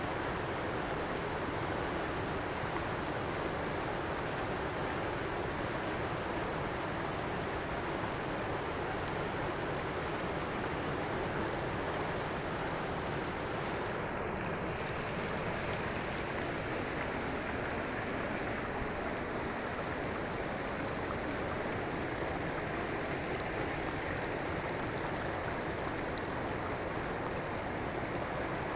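Steady rushing of falling water, an even noise with no breaks; the hiss in its upper range turns duller about halfway through.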